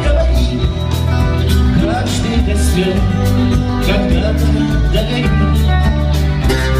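Band music: bass notes and guitar over a steady drum beat.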